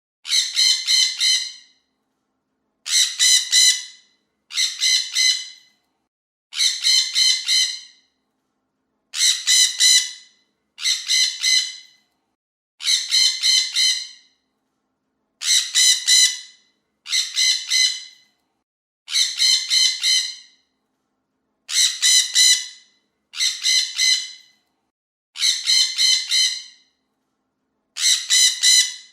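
Parrot calling in short bursts of three or four quick notes, each burst alike, repeated about fourteen times at an even pace of roughly one every two seconds.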